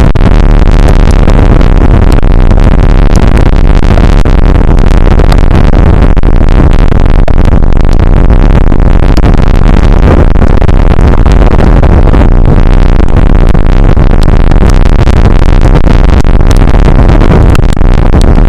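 Rain shower on an outdoor weather camera's microphone: a constant loud, overloaded rush of noise with a crackly texture and heavy low rumble.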